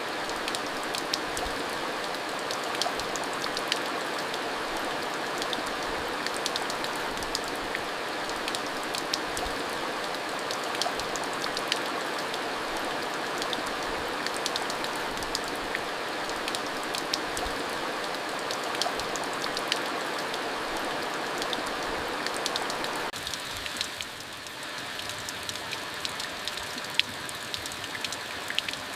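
Steady rain: a constant hiss with many separate drops ticking through it. About three-quarters of the way through, the rain eases slightly and the single drops stand out more.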